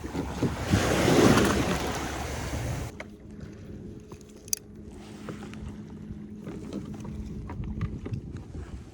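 Wind buffeting the microphone over water on a kayak, cutting off suddenly about three seconds in. After that comes a quieter stretch of small knocks and clicks against the kayak, with one sharp click.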